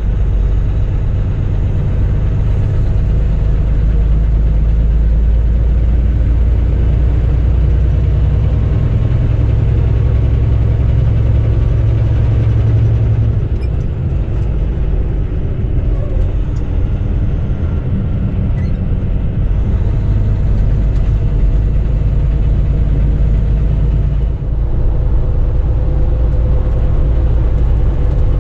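Semi truck driving on the highway: a steady low engine drone with road noise, easing slightly about halfway through.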